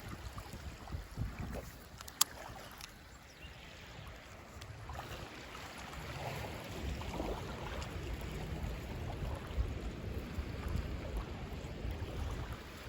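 Wind buffeting the microphone in uneven gusts over lake water lapping, with one sharp click about two seconds in.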